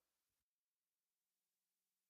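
Near silence: the sound track drops out almost entirely, leaving only a trace of faint hiss.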